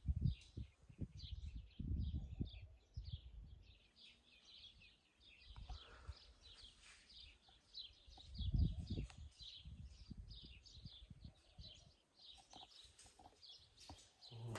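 Small birds chirping continually in quick short notes, with low rumbling gusts of wind on the microphone, loudest near the start and again about eight seconds in.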